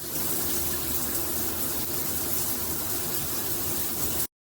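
Water spraying steadily from a filtered shower head, a hiss of many fine jets, which stops abruptly just before the end.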